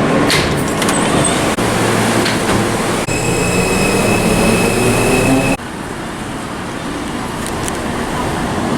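Vintage subway train running with a loud rumble. A rising motor whine and a high steady squeal come in about three seconds in, then the sound drops suddenly to a quieter rumble a few seconds later.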